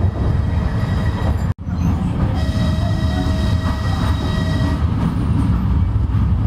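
Narrow-gauge children's railway train running, heard from inside a passenger car: a steady low rumble of the wheels and car. A steady whine joins for about two seconds in the middle, and the sound cuts out for an instant about one and a half seconds in.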